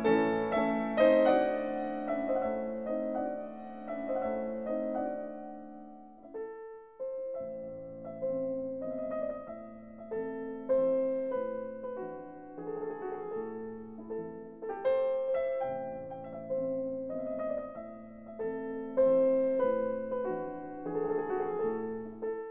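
Background piano music: a slow melody of ringing notes over held chords, with a short pause about seven seconds in.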